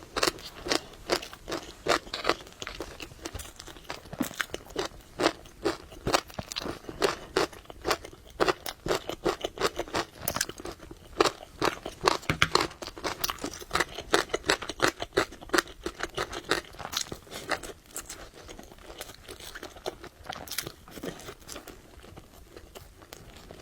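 Close-miked chewing of noodles and food, a rapid run of wet mouth smacks and crunches, several a second, thinning out and growing quieter after about eighteen seconds.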